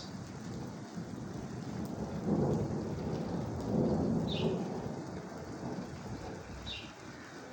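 Steady rain with rolling thunder, the rumble swelling twice in the middle. A few short high chirps are heard over it.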